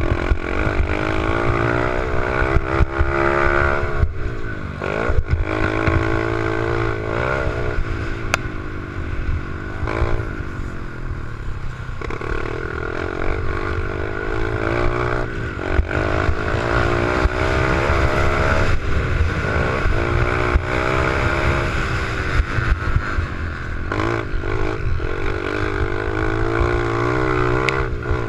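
88cc pit bike engine being ridden, revving up and dropping back over and over, its pitch climbing and falling every few seconds over a constant low rumble.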